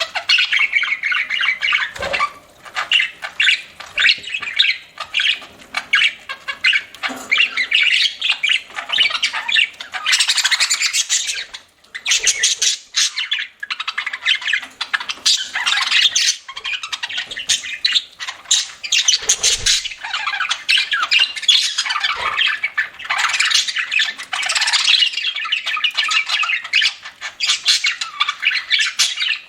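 Budgerigar chatter: a dense, unbroken run of rapid chirps and squawks, pausing only briefly a few times.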